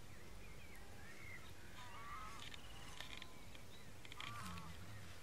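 Faint bird calls: short, curling chirps and whistles repeated throughout, with a brief run of quick faint ticks about halfway through.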